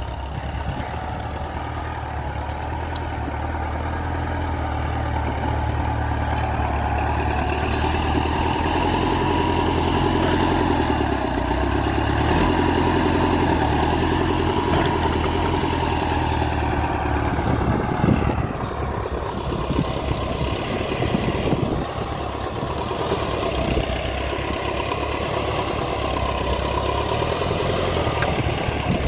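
Massey Ferguson 590 tractor's diesel engine running steadily at idle; about two-thirds of the way through there is a knock and the engine note changes.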